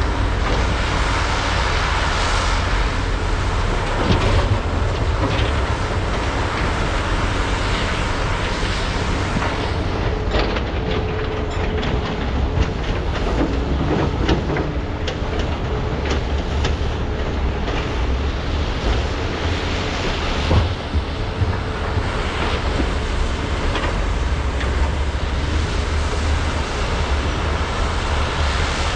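Diesel engines of Komatsu PC395 and SANY SY485H excavators working under load with a steady low rumble, loading trucks with rock. A run of metallic clanks and knocks comes in the middle, along with a faint steady whine.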